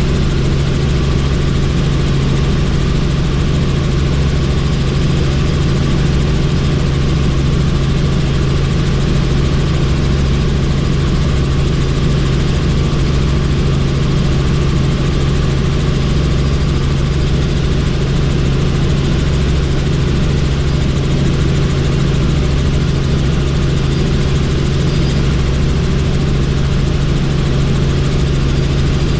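Helicopter in steady flight heard from on board: a constant loud drone of rotor and engine with a strong low hum, unchanging throughout.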